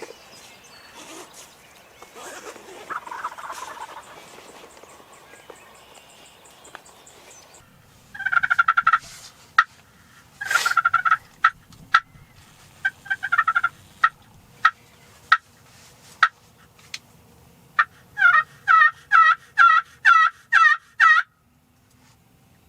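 Wild turkey gobbling: two loud rattling gobbles about a third of the way in, then a few short sharp notes, and near the end a run of about eight evenly spaced yelps.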